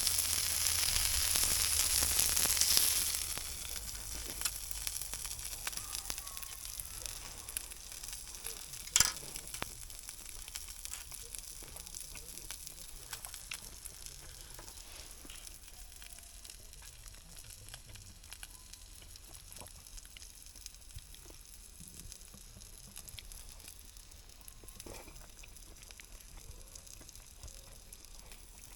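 Food frying in a pan: a loud, high sizzle that drops sharply after about three seconds to a quieter sizzle with scattered small pops, and one sharp click about nine seconds in.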